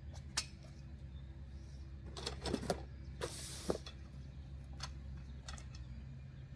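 Scattered sharp clicks and knocks, with a short scraping hiss about three seconds in, as Springfree trampoline mat rods are handled and seated in place. A low steady hum runs underneath.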